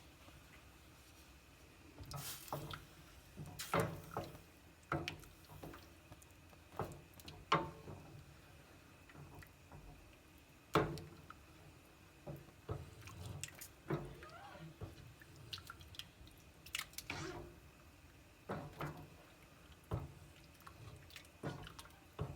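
Wet squelches and drips with irregular small knocks, as raw lamb tripe is handled in water.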